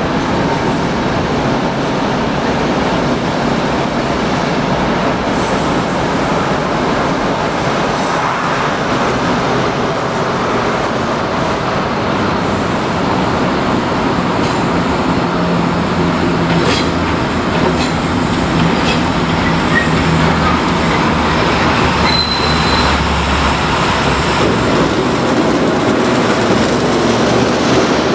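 A train running on rails: a steady, loud rolling noise of wheels and running gear, with a brief high-pitched squeal about three quarters of the way through.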